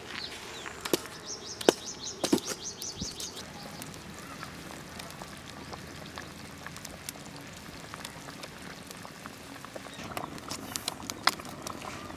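A bird gives a rapid run of high chirps about a second in, lasting roughly two seconds. Scattered sharp clicks and taps sound over a faint outdoor background.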